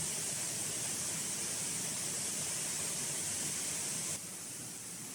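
Waterfall, a steady hiss of falling water with no distinct events; it drops suddenly to a lower level about four seconds in.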